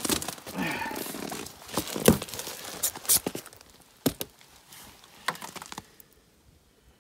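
Rustling, crinkling handling noise with many scattered sharp clicks and knocks, dying away about six seconds in.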